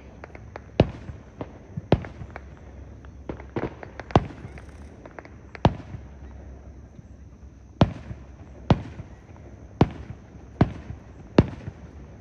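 Fireworks shells bursting overhead: about ten sharp bangs at irregular intervals, one to two seconds apart.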